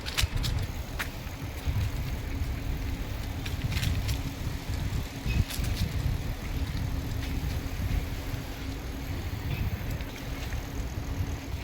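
Strong wind buffeting the microphone, an irregular low rumble, with a faint steady hum underneath and scattered sharp clicks.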